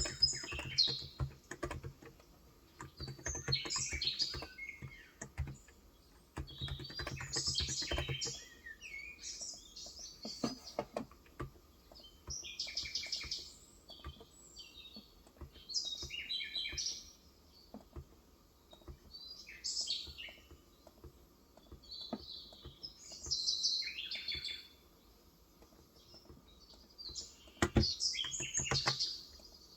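Small birds chirping in repeated short bursts. Typing on a Cox Endeavor 35 g electro-capacitive keyboard, a quick patter of soft key strokes, runs for the first eight seconds or so and starts again near the end.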